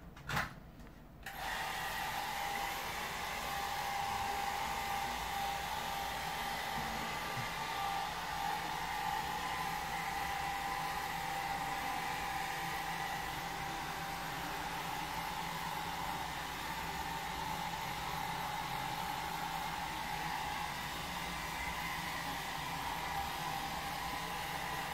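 A short knock, then from about a second in a steady machine noise with a high whine that holds the same pitch throughout, typical of construction machinery running.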